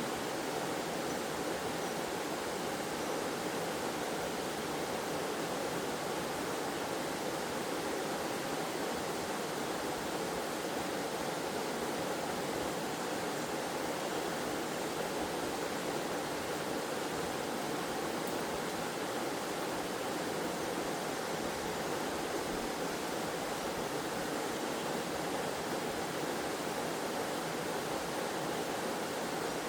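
Small waterfall or cascading forest stream, water rushing in an even, unchanging wash.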